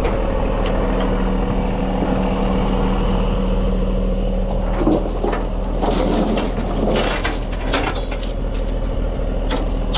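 A truck engine idling steadily, with metal tie-down chains clanking and rattling as they are handled from about five seconds in.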